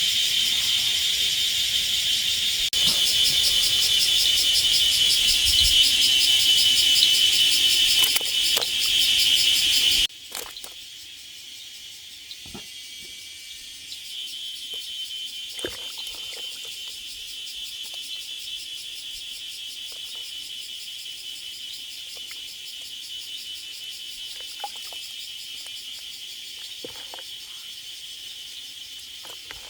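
A chorus of insects trilling steadily in a high, finely pulsing buzz. It drops suddenly to a quieter level about a third of the way in and carries on, with a few faint clicks.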